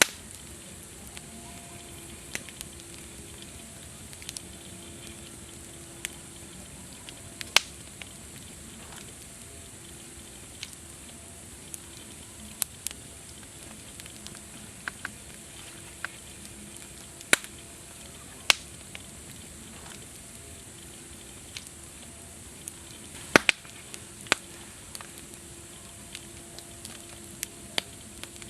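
Wood campfire burning with a steady hiss and irregular sharp crackles and pops, a few of them much louder than the rest.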